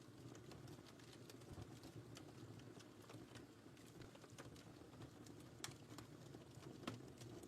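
Wood fire burning in a fireplace, heard quietly: a steady low rush of flames with scattered sharp crackles and pops.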